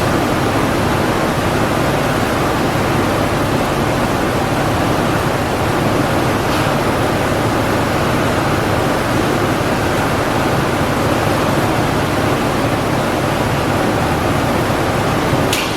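Steady, even rushing of moving air, with no engine note or speech in it.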